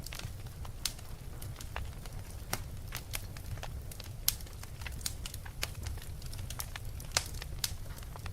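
Fire crackling: irregular sharp pops and snaps, two or three a second, over a steady low rumble of the flames, with the loudest pops about four and seven seconds in.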